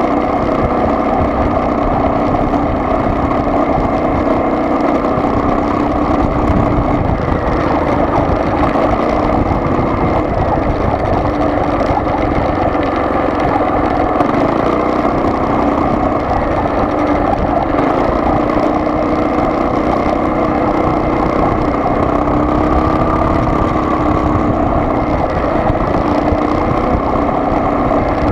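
Steady drone of a car's engine and road noise heard from inside the moving vehicle, its pitch drifting slightly.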